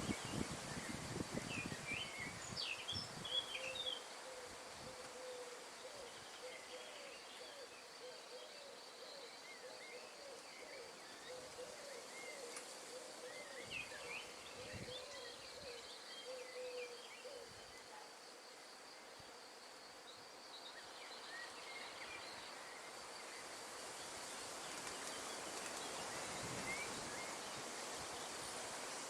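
Wind blowing through trees, rustling the leaves, stronger in the first few seconds, with small birds chirping now and then and a thin steady high insect buzz.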